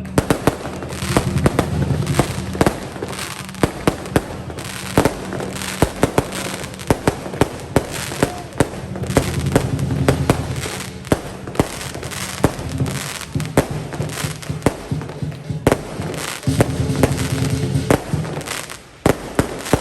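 Firecrackers going off in rapid, irregular pops throughout, over lion dance percussion music.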